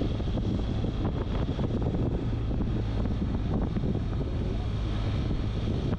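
BMW R1200GS boxer-twin engine running steadily while the bike is ridden, with wind rushing over the microphone.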